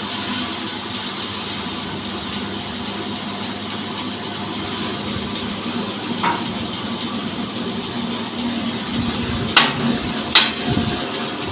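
Petrol engine of a sawmill running steadily, with a small click about six seconds in and two sharp knocks near the end.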